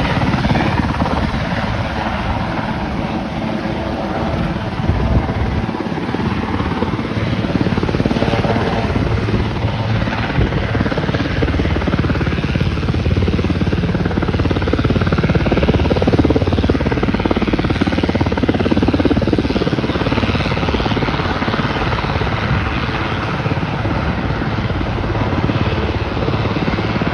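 Firefighting helicopter's rotor and engine running loud and close as it comes in to land, a steady heavy beating that carries through.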